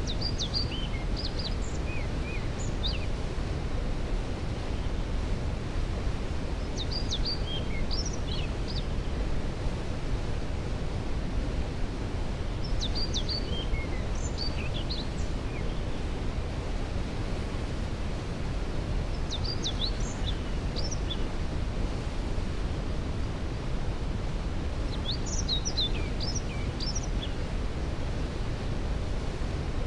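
Steady rushing roar of a waterfall, heaviest in the low range. Over it a songbird repeats a short high song phrase about every six seconds.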